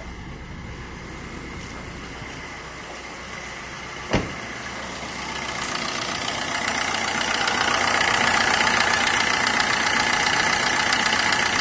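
Maruti Suzuki Swift Dzire engine idling with the AC switched on. The AC compressor is apparently running again after a blown fuse was replaced. The sound is muffled at first, then grows louder and clearer close up in the engine bay. A single sharp thump comes about four seconds in.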